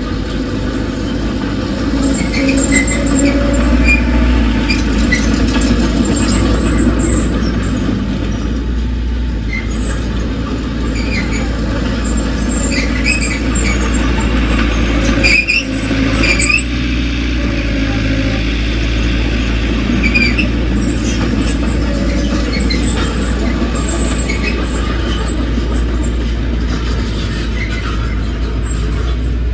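Heavy earthmoving machinery working: a diesel engine runs with a steady low rumble, over which short high squeals come and go.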